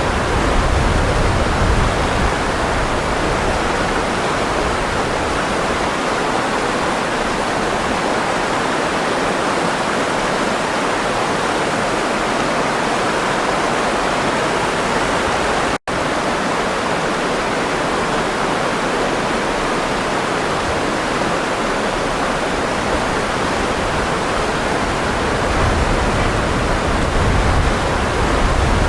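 Running water rushing steadily, a stream or small waterfall, with a deeper rumble near the start and the end. A split-second break in the sound a little past halfway.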